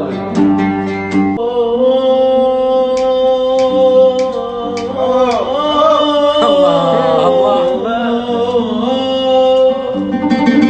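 Arabic tarab music: an oud is plucked while a male voice holds long, wordless notes, bending and ornamenting them in the middle.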